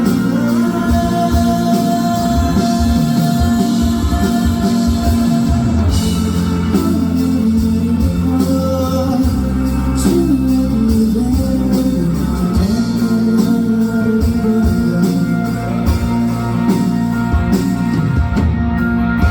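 Live band playing a rock song, with electric guitar, drums and singing.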